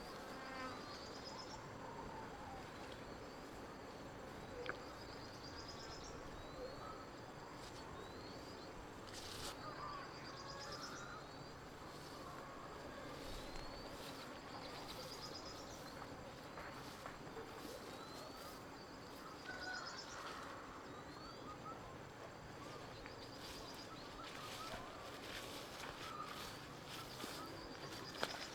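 Outdoor ambience of birds calling over a steady background hiss: a short, high rising chirp repeated about once a second, with other scattered chirps in between. Two brief clicks, one a few seconds in and one near the end.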